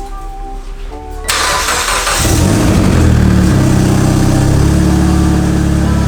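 Mitsubishi Lancer Evolution VIII's turbocharged 4G63 four-cylinder being started for a warm-up: the starter cranks about a second in, the engine catches about a second later and settles into a steady idle.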